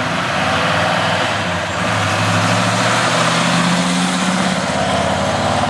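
1969 Chevrolet Chevelle's 396 cubic-inch big-block V8 with headers, running steadily as the car drives up and passes close by.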